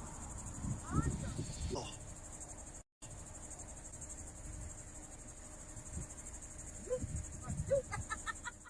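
Steady high-pitched chorus of crickets chirring, with a brief dropout about three seconds in and faint murmuring voices underneath.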